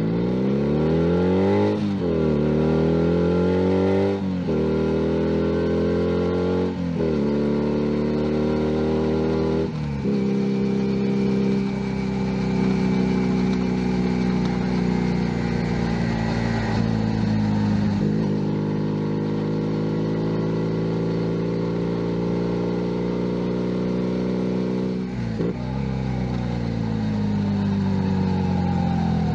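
Junak M11 Cafe 125 cc motorcycle engine pulling up through the gears, its note rising and then dropping at each of four quick upshifts in the first ten seconds. It then holds a steady cruising note, with a brief dip and pickup about 25 seconds in, and eases off near the end.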